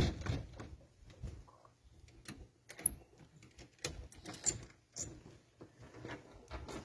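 Scattered clicks and knocks of wood and tools being handled at a workbench, the sharpest a bit under 3 s in, over a faint steady low hum.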